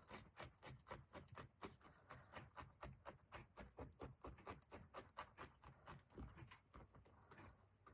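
Felting needle stabbing repeatedly through wool roving into a foam block, faint quick pokes about four to five a second, thinning out near the end.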